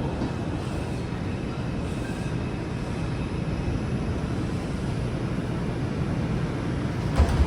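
Steady low running noise inside an R142 subway car standing at a station platform, with a short knock near the end.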